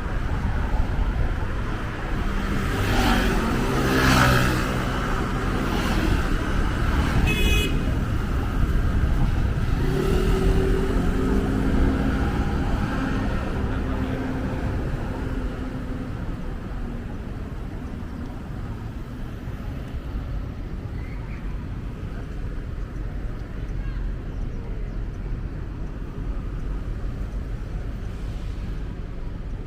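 Street traffic: motor vehicles passing, their engines rising and falling in pitch as they go by over a steady road rumble, with a brief high toot about seven seconds in.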